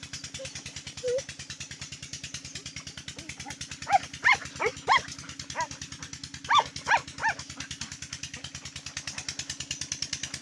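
Tubewell's diesel engine running steadily with an even beat. A dog barks several times in short bursts, from about four seconds in to about seven seconds in.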